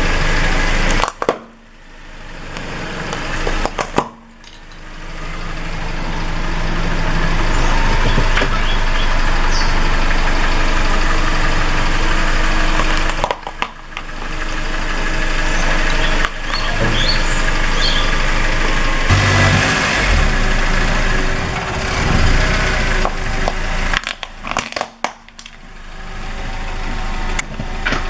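A car engine running while the car's tyres roll over objects and crush them. The sound breaks off abruptly several times between takes.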